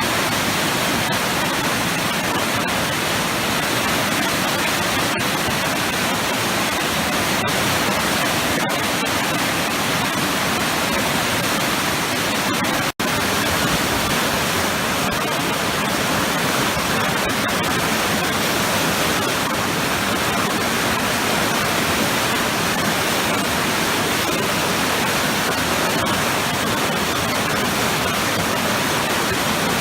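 Waterfall with powerful, churning eddies: a steady, unbroken rush of water. It cuts out for an instant about thirteen seconds in.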